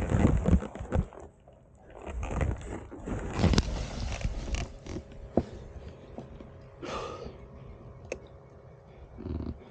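A paramotor's engine and wind noise cut off about a second in, leaving quieter scraping, rustling and scattered clicks of the gear being handled.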